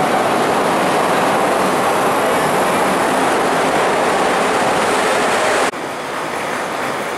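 CTA 'L' rapid-transit train pulling into an elevated station platform close by, a loud steady rumble. A little before the end it cuts off abruptly to the quieter rumble of another train approaching in the distance.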